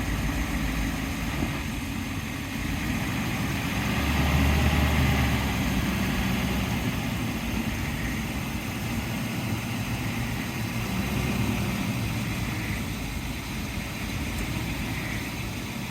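An engine running steadily at low speed, idling, with a continuous hiss of noise over it.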